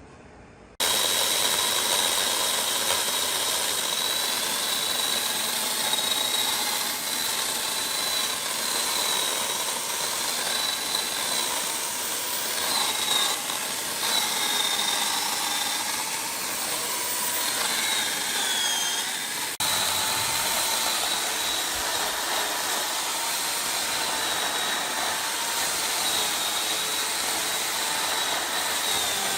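Chainsaw running steadily at high speed, a loud, even whine that starts abruptly about a second in and breaks off briefly about twenty seconds in.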